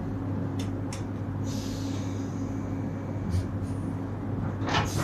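Electric passenger train standing at a station platform, a steady low electrical hum with a few faint clicks.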